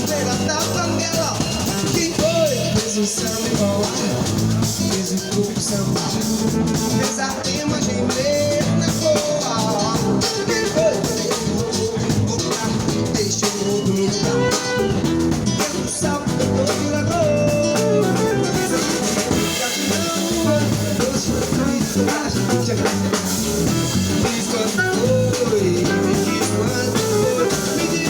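Instrumental section of a live band: drum kit, electric bass and guitar keep a steady groove under a lead melody line that glides and bends, with no singing.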